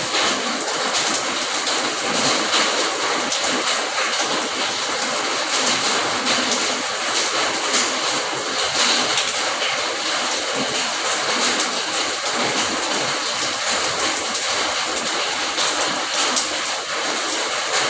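Steady, heavy rain falling, a dense even hiss with fine patter of drops.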